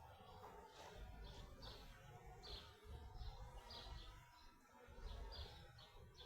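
Faint bird calls: a series of short, falling chirps, roughly one a second, over a low background rumble.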